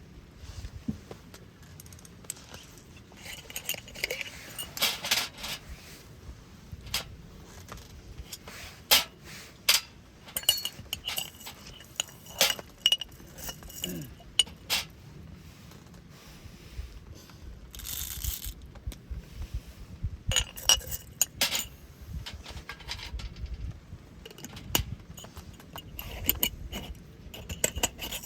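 Metal camp gear and cookware being handled: scattered clinks, knocks and rattles, some ringing briefly.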